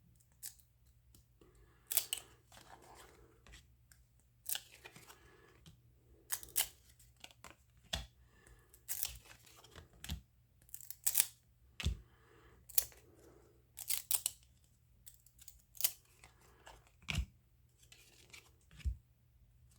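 1993 Upper Deck baseball cards being peeled apart and flipped one at a time: an irregular run of sharp snaps and short scrapes, a second or so apart. The cards are stuck together from long storage and come off one by one.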